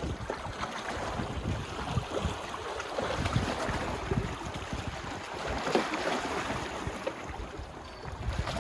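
Small sea waves washing and lapping at the shore, with wind buffeting the microphone in irregular low rumbles.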